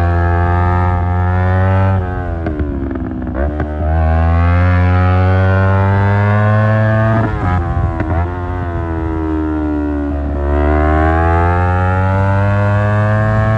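Yamaha R25 parallel-twin engine through an Akrapovic exhaust, ridden hard at high revs. The pitch dips as the throttle closes about two seconds in and again about seven seconds in, then climbs back up each time, and rises again near ten seconds.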